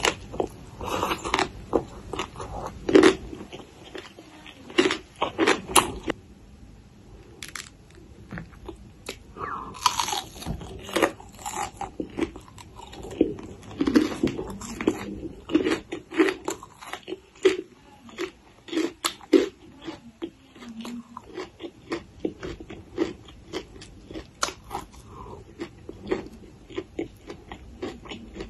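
Close-miked chewing of a crunchy spicy papaya salad: irregular crisp crunches and bites, with a short lull a few seconds in.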